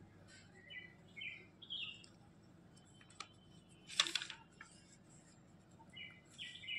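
Small birds chirping in two short bouts, about a second in and near the end, with a brief rustle about four seconds in.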